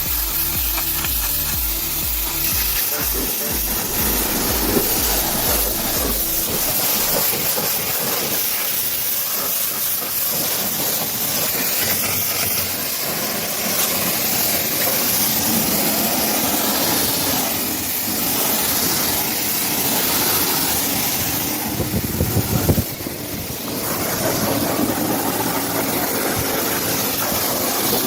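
Steady hiss of high-pressure water spray from a pressure washer hosing down a truck, with a rhythmic music beat under it in the first few seconds. There is a short louder rumble about 22 seconds in.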